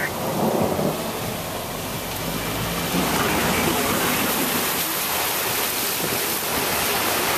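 Heavy rain pounding on a car with water rushing and splashing as it drives through flood water, a steady rushing noise that grows a little louder about three seconds in.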